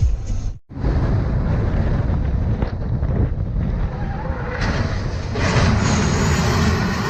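Car driving: steady engine and road rumble with some wind buffeting, louder and brighter in the last couple of seconds. It drops out briefly just under a second in, at a cut between clips.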